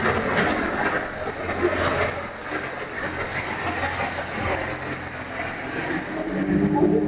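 Motorboat's outboard engine running under wind and water rush; about six seconds in the engine note becomes louder and steadier.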